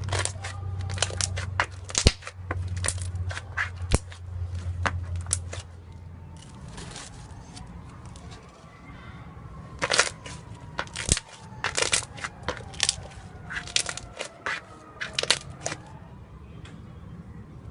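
Slime being squeezed and worked by hand, giving irregular clusters of sharp pops and crackles. A low steady hum runs under it for roughly the first six seconds.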